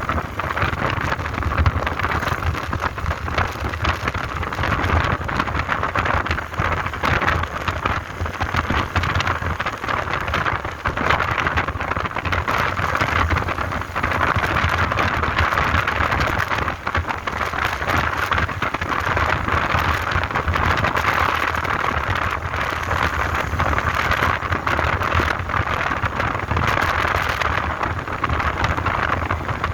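Motorbike on the move: a low engine rumble under a steady rushing noise with fine crackling throughout.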